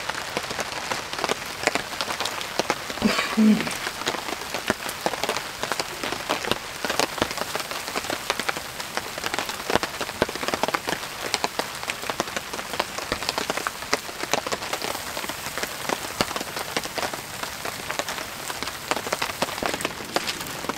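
Steady rain falling on a tarp shelter: a dense, irregular patter of drops. A short low sound about three seconds in.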